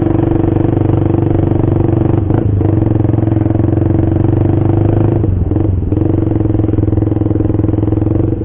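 Motorcycle with an aftermarket racing exhaust running at a steady speed, its loud, even exhaust note dipping briefly about two seconds in and again around five seconds in.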